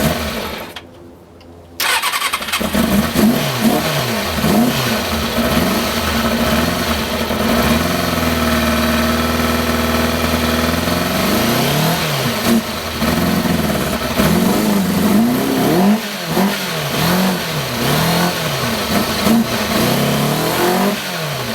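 2000 Kawasaki ZX-6R Ninja's inline-four engine. It catches briefly and dies, then fires about two seconds in and runs, revved up and down again and again with the throttle.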